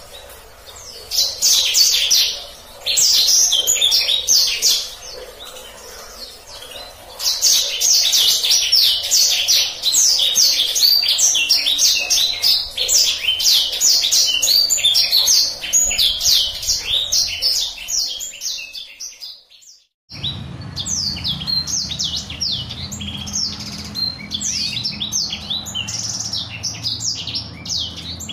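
Black-throated canary (blacksang) singing a long, rapid rolling song of high chirps and trills. The song fades out briefly about two-thirds of the way through, then resumes over a low steady hum.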